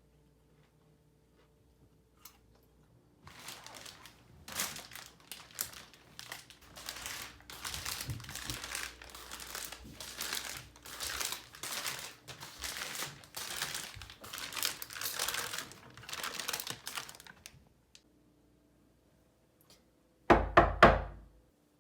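Crinkly packaging being handled and crumpled, in an uneven crackling run of about fifteen seconds, followed near the end by a brief loud thump.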